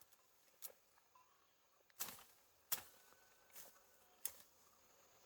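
A few scattered light knocks and taps, about five in all, the sharpest about two and a half seconds in, over quiet background.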